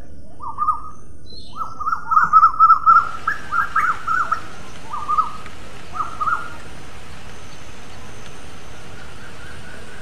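Bird calling: short calls repeated in bursts over the first six or so seconds, densest a couple of seconds in, then stopping, over a steady hiss of background noise.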